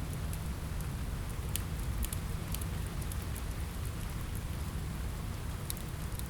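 Steady rain against a window, with a low rumble underneath, mixed with a crackling fireplace; a few sharp clicks stand out about one and a half, two, two and a half and nearly six seconds in.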